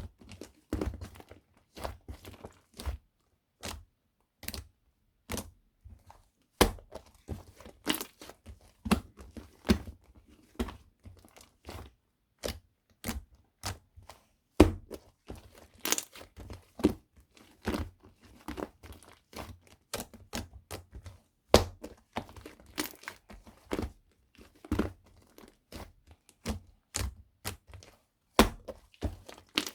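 A long run of close, irregular clicks, taps and knocks with some crinkling, many sharp strikes a second apart or less, with short pauses between.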